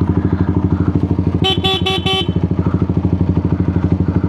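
Small motorcycle engine idling with a steady pulse; about one and a half seconds in, a horn gives four short toots in quick succession.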